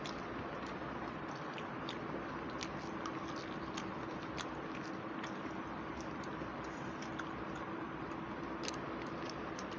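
Close-miked chewing by two people eating rice and curry with their hands, with small irregular smacking clicks over a steady low background hum.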